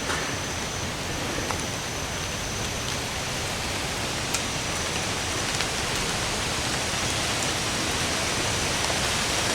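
Steady rain falling in woodland: a constant even hiss, with a few louder single drops ticking close by.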